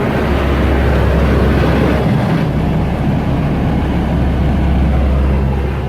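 Automatic tunnel car wash rinsing the car, heard from inside the cabin: a loud, steady rush of water spray over the body with a deep, steady rumble of the wash machinery.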